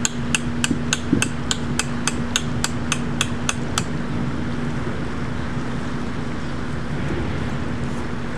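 Rapid, evenly spaced sharp clicks, about three a second, that stop about four seconds in, over a steady low hum.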